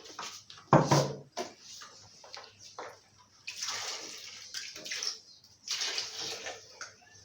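Water pouring and splashing in two long stretches, with a single loud thump about a second in and small knocks between.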